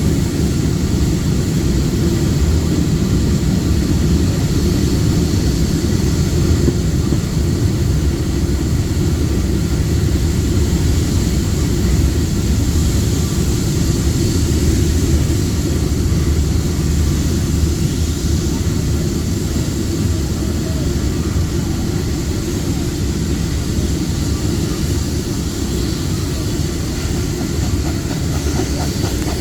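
Historic train running, a steady low rumble throughout.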